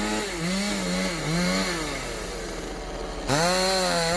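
Two-stroke chainsaw running hard, its pitch sagging and recovering several times under load as it cuts the willow, then jumping abruptly to a steady high rev a little past three seconds in.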